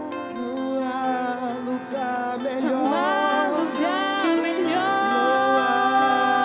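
Acoustic worship music: a voice sings a winding, ornamented phrase over acoustic guitar, then holds a long note through the last part.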